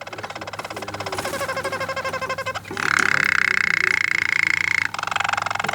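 Roller canary singing: fast, evenly pulsed rolling trills, then a loud, steady held note about three seconds in that lasts about two seconds, then rolling trills again.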